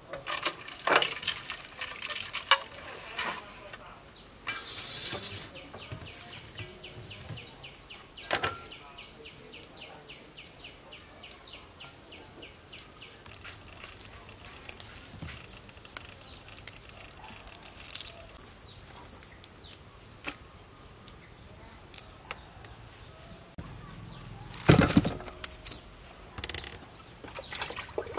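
A bird calling over and over with short, high, downward-slurred chirps, about four a second. Under it come sharp snaps and rustles of long beans being broken and trimmed by hand.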